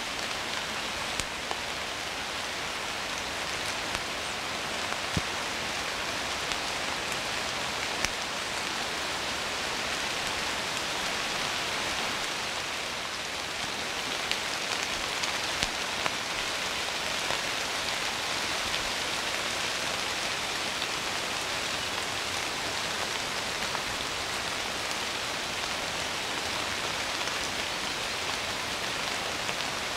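Heavy rain shower falling steadily, a dense even hiss with a few louder single drop hits now and then.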